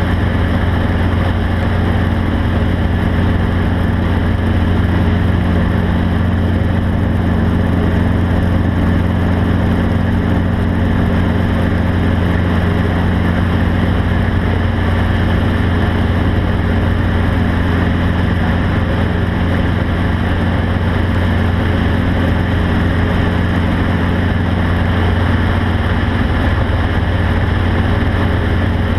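A steady, low engine drone, unchanging in pitch and loudness throughout.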